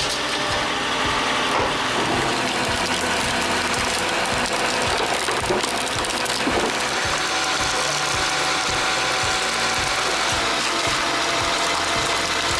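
Homemade log splitter running, with a steady mechanical clatter of rapid, irregular clicks over a whirring drive.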